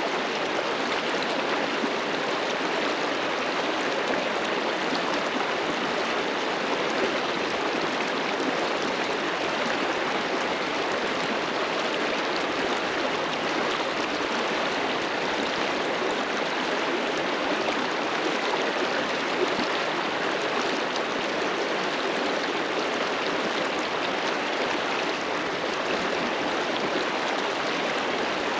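River water rushing and splashing over rocks, a steady even rush.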